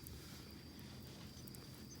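Wood campfire burning with a low rumble and scattered small crackles, over a steady high-pitched trill.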